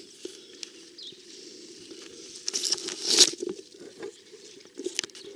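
Digging by hand in garden soil around a potato plant: soft scratching and rustling, with a cluster of louder scrapes about three seconds in, the loudest just after.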